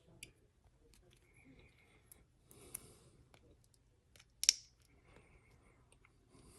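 Small clicks and rattles of parts being handled while a polymer pistol grip is fitted to an AR-15 lower receiver, with one much louder sharp snap about four and a half seconds in.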